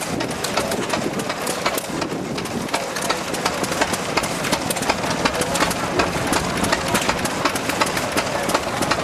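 Vintage hit-and-miss stationary engines running, a steady busy clatter of sharp ticks and pops from several engines firing and clicking out of step.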